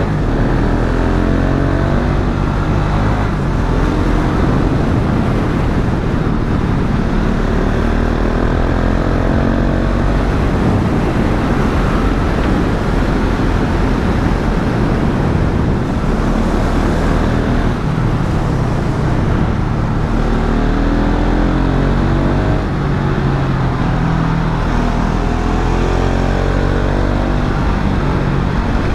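KTM 690 Duke single-cylinder motorcycle engine pulling hard on the road, revs climbing again and again through the gears near the start and in the last third, with steadier running between, over the rush of wind.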